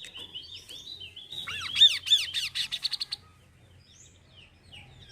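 Kaso-kaso bird singing. Quick down-slurred chirps give way to a loud run of arched, rising-and-falling notes, several a second, for about a second and a half, then only scattered softer chirps.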